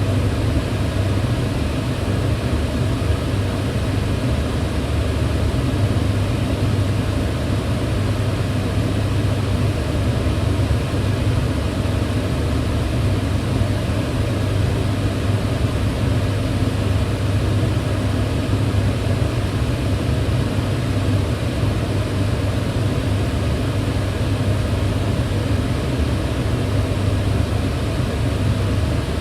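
Kitchen range hood extractor fan running steadily: an even rushing noise over a strong low hum.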